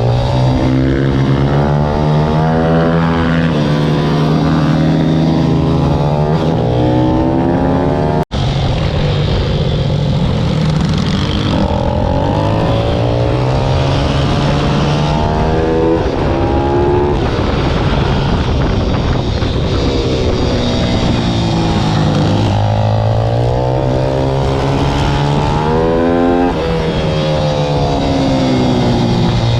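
Pit bike's single-cylinder four-stroke engine being ridden hard, its pitch climbing as it revs up and falling back off, over and over. The sound cuts out for an instant about eight seconds in.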